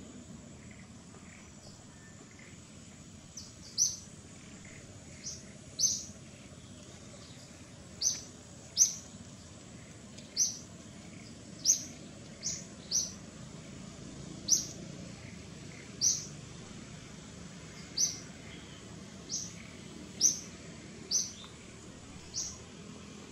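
A bird repeating a short, high chirp about once a second, starting a few seconds in, over faint steady forest ambience.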